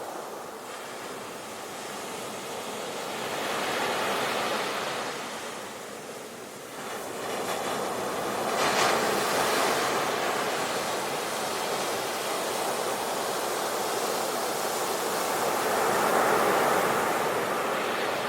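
Sea waves breaking and washing on the shore in slow surges, the loudest crash about halfway through.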